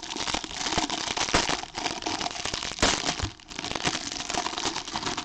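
Foil wrappers of trading-card packs crinkling and tearing as they are opened by hand, a steady run of small crackles.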